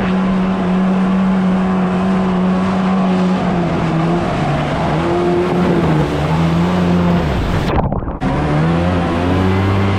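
Two-stroke stand-up jet ski engine running hard, holding a steady pitch for the first three seconds or so, then rising and falling as the throttle is worked. The sound briefly thins out about eight seconds in, then the engine picks up again.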